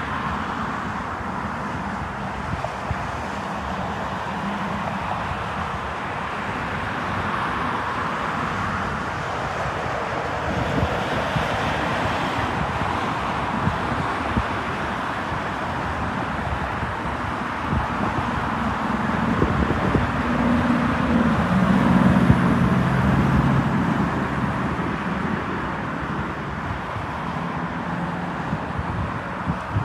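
Steady outdoor traffic noise with wind buffeting the microphone, swelling as a louder vehicle passes about twenty seconds in.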